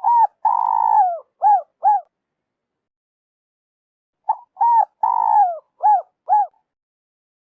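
Spotted dove cooing: two phrases about four seconds apart, each a short coo, a long coo falling in pitch, then two brief coos. It is the call that trappers play to lure doves.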